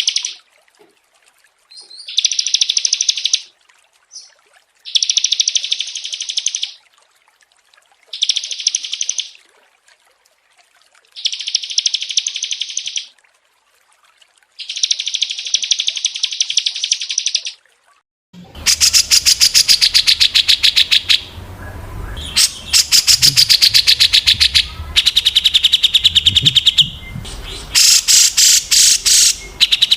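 Recorded small songbirds singing: six short, high, rapid trills spaced a few seconds apart, then, from about two-thirds of the way in, a different recording with a low background hum and near-continuous fast chattering trills.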